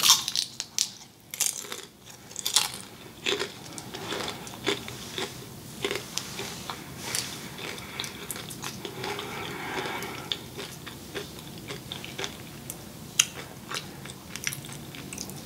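A person biting and chewing crispy fried food, with many short, sharp crunches throughout.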